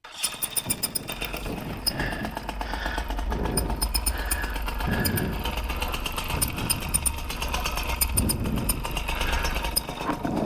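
Paramotor motor and propeller running steadily as the pilot prepares to launch.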